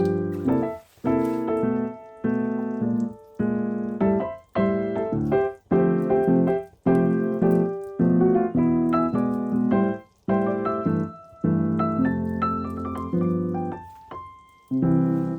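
Background piano music: gentle chords struck one after another, each fading before the next.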